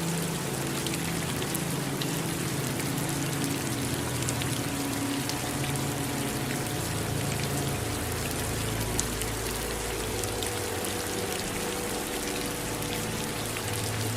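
Steady rain, an even hiss sprinkled with sharp ticks of single drops, over running water and a low, slowly shifting rumble underneath.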